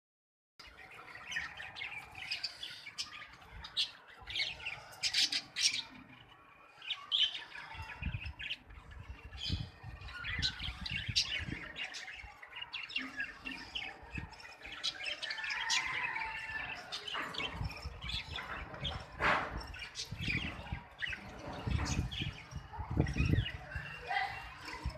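Pet budgerigars chirping and chattering continuously, many short, quick calls with occasional squawks. Bursts of low rumble come in partway through and again near the end.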